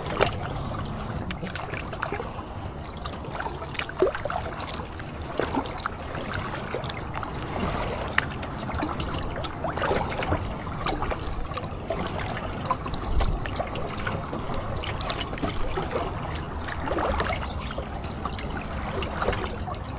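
Kayak paddle strokes: water trickling and dripping off the paddle blades, with small splashes and knocks scattered throughout.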